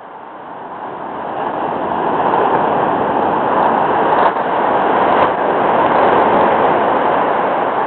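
Bonfire flaring up: a rushing hiss that builds over the first two or three seconds, then holds steady, with a couple of small pops. The onlookers take it for something in the fire with a leak, venting as it burns.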